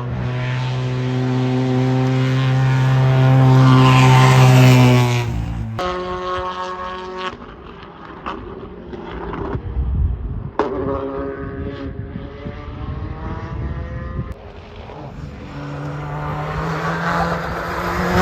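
Hill-climb race car engines at high revs, passing one after another. One engine holds a steady high note for about five seconds and stops abruptly, then others rise in pitch as they accelerate through the gears.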